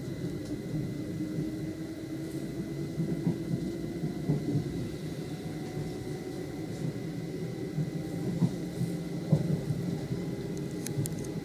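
Cabin ride noise of a Norwegian State Railways Class 74 electric multiple unit (Stadler FLIRT) running along the track: a steady low rumble of wheels on rail, heard from inside the carriage, with a few sharper knocks scattered through it.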